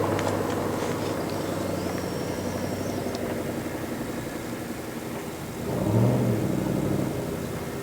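Ford Mustang V8 running through an SLP aftermarket exhaust while driving. The exhaust note eases off gradually, then swells briefly about six seconds in before settling again.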